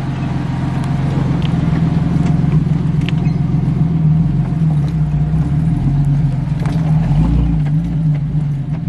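Stock 1994 Jeep Cherokee XJ's engine running steadily as it crawls over rocks, with scattered clicks and creaks. The engine's low rumble swells about seven seconds in.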